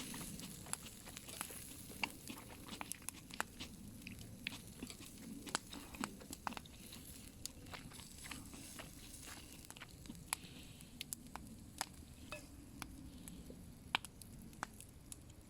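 Wood campfire cooking food, with many irregular sharp crackles and pops over a faint steady sizzle.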